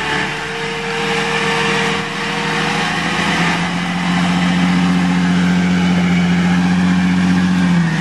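Jeep Cherokee XJ engine running under load while stuck in deep mud on a tow line, with a steady whine over it for the first few seconds; about three and a half seconds in the revs step up and are held high as it is pulled forward.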